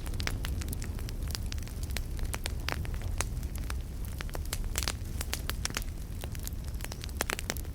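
Campfire burning: a steady low rumble and hiss from the flames, with many sharp, irregular pops and crackles from the burning wood.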